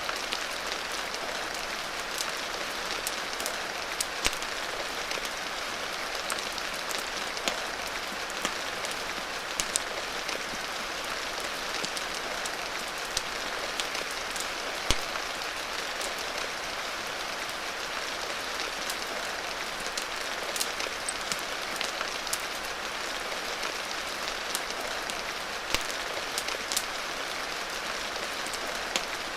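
Steady rain with scattered sharp clicks and pops, a rain-and-fireplace ambience mix with the crackle of a wood fire.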